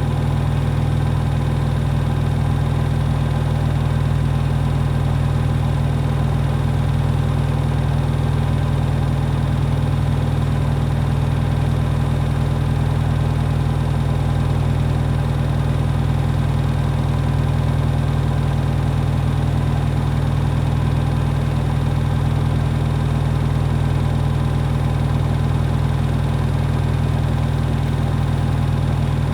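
Hoover HW411AMC washing machine spinning steadily at high speed in its final spin: a constant motor and drum hum with no change in speed.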